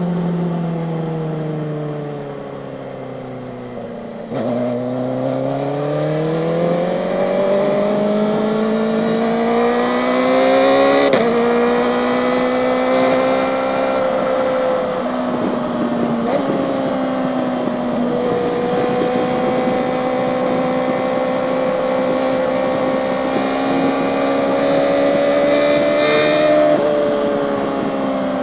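Kawasaki ZX-4RR's inline-four engine heard from the bike while riding: the revs fall away at first, then it pulls away about four seconds in with a sharp rising whine and a quick gear change. It then cruises fairly steadily, with small steps in pitch, and the revs drop again near the end.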